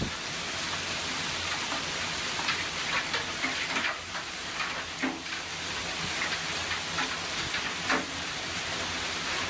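Hailstorm: a steady hiss of hail and rain pouring down, with many scattered sharp hits of hailstones striking hard surfaces.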